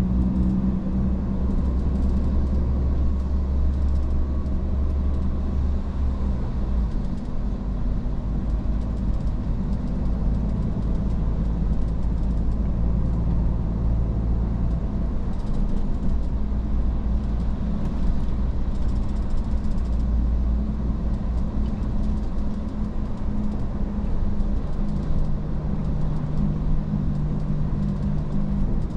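Iveco S-Way truck engine running steadily under way, with road and tyre noise; the engine note shifts about seven seconds in and again near the end.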